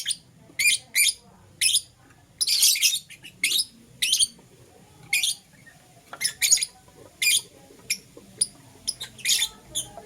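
Lovebirds chirping: a run of short, high-pitched chirps and squawks, about one or two a second, some coming in quick clusters.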